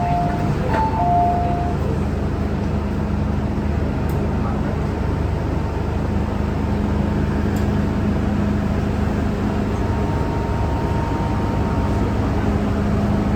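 Steady rumble and hiss inside an MTR M-Train metro car, with a constant low hum, and a few short electronic tones in the first couple of seconds.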